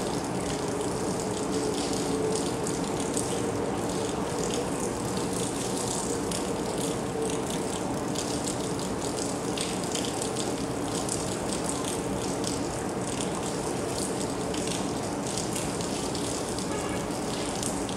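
Steady rain falling, with a dense ticking of close drops. A faint steady low drone sits beneath it.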